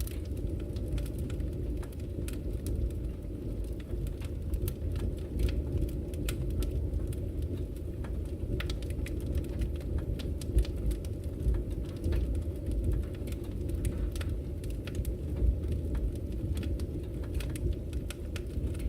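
Wood logs burning in a fireplace: a steady low rumble of the fire with scattered sharp crackles and pops, a few of them louder.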